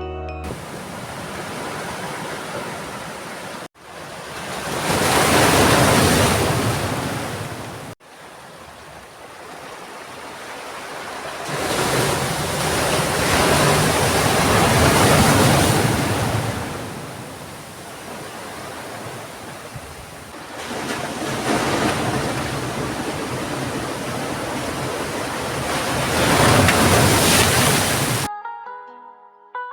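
Sea surf: waves breaking and washing up the shore, with a steady hiss that swells loud three times.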